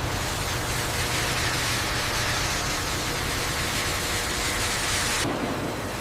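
Steady rushing hiss of industrial machinery over a low hum, which cuts off abruptly about five seconds in.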